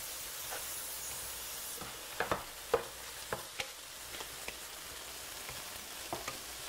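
Ground beef and onion sizzling as they brown in a skillet, with a few sharp clicks and scrapes of a utensil stirring in the pan from about two seconds in. At first a hiss of aerosol cooking spray coating a baking dish sits over the sizzle and stops about two seconds in.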